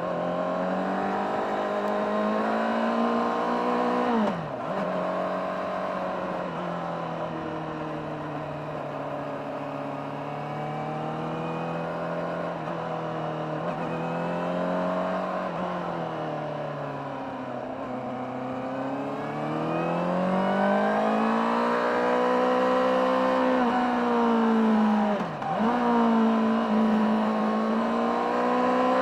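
Honda CBR600RR inline-four with its stock exhaust, running under way on the road. The engine note falls and rises gradually with the throttle and climbs noticeably about two-thirds of the way through. It dips sharply and briefly twice, once early and once near the end.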